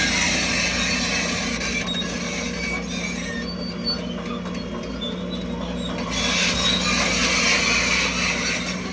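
Crawler bulldozer at work: a steady diesel engine note with grinding, squealing noise from its steel tracks, easing off for a couple of seconds mid-way.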